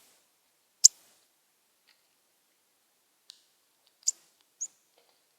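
A few short, sharp, high clicks at irregular intervals from a northern cardinal at a smart bird feeder. The loudest comes about a second in, and two more come close together near the end.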